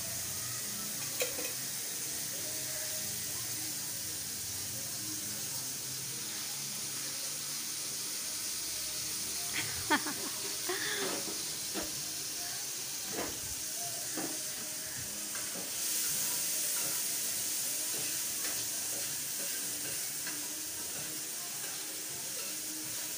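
Chopped tomatoes sizzling in oil on a flat griddle (tawa), a steady hiss. A metal spatula scrapes and taps against the griddle a few times around the middle as the tomatoes are stirred.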